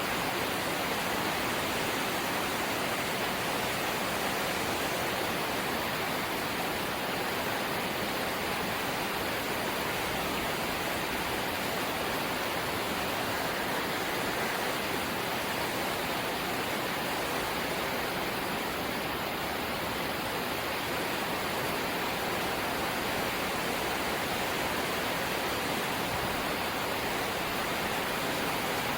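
Rain falling on a corrugated zinc roof: a steady, even wash of noise with no single drops standing out.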